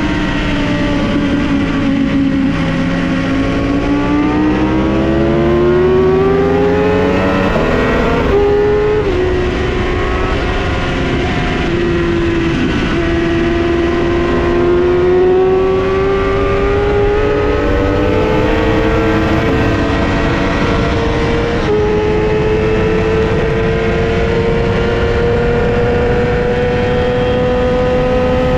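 2008 Yamaha YZF-R6 inline-four engine at high revs on track, its pitch easing off at first, then climbing hard under acceleration, falling again and climbing once more. Sudden small jumps in pitch about eight seconds in and near the last quarter mark gear changes.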